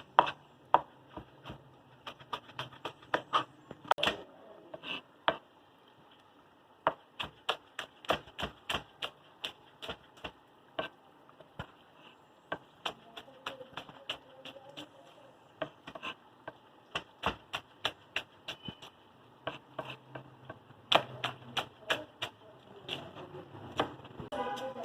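Knife chopping on a cutting board: a long run of sharp, irregular taps, a few each second, with short pauses.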